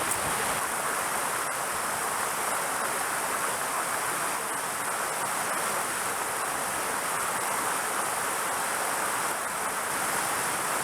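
Mountain stream water flowing over rocks: a steady, even hiss with no change in level.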